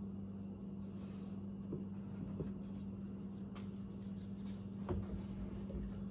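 Faint clicks and light knocks of generator parts being handled and fitted together, over a steady low hum.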